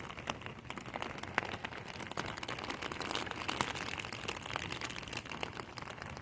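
Heavy rain falling, with many irregular drops tapping close to the microphone.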